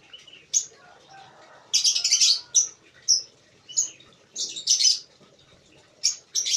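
Small birds chirping: clusters of sharp, high chirps come every second or so, loudest about two seconds in and again near five seconds.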